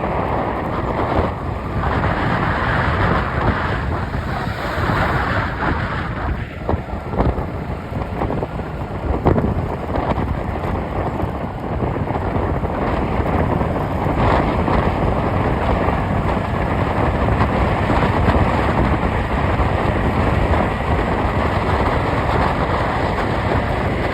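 Steady road and wind noise from a moving vehicle, with a few brief knocks between about seven and ten seconds in.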